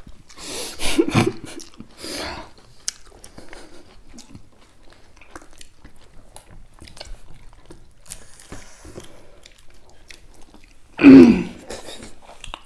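Two people chewing food eaten by hand, with many small wet clicks and occasional crunches. Laughter in the first couple of seconds, and a short loud burst of voice about eleven seconds in.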